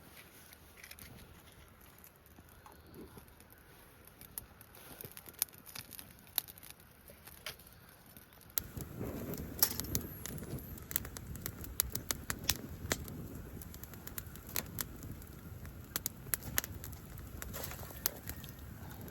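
Wood fire crackling with scattered sharp pops. About halfway through, the sound turns louder, with a low rushing underneath and more frequent pops.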